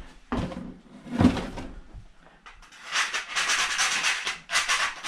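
Freshly cut metal raceway channel being handled, with a few light knocks, then a run of scraping on the metal from about three seconds in, in short strokes near the end.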